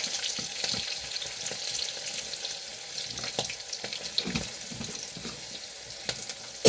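Water running and splashing steadily, with scattered small clicks and knocks.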